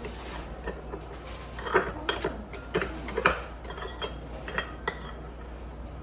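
Eating utensils clinking and tapping against dishes, a handful of short light knocks bunched in the middle, over a steady low hum.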